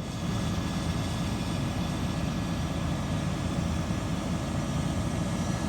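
Heavy diesel engine running steadily: a constant low drone with a faint high whine over it.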